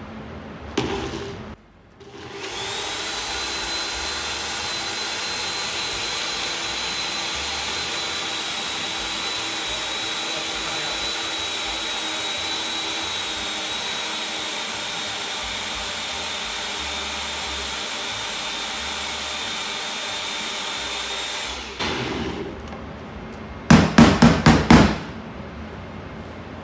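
Countertop blender motor pureeing sweet potato mash: a short burst, a brief stop, then about twenty seconds of steady running with a high whine. Near the end, a quick run of about six loud knocks.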